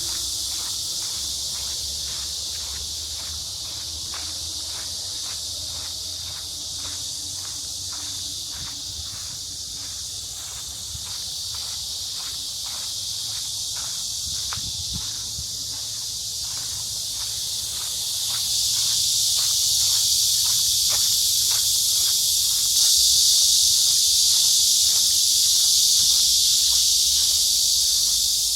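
Chorus of cicadas, a dense steady high hiss that grows louder about two-thirds of the way through. Under it are footsteps walking at about two steps a second.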